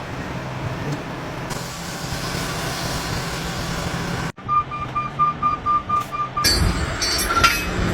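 Heavy truck engine running steadily. After a sudden cut comes a rapid run of short, even electronic beeps, like a truck's warning alarm, and then louder, rougher engine and mechanical noise.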